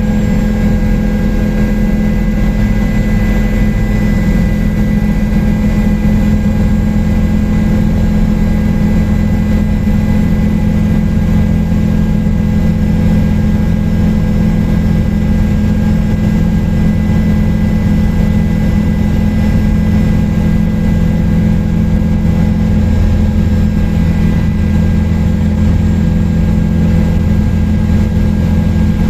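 Helicopter in flight: a steady, loud drone of rotor and engine with several constant whining tones above it.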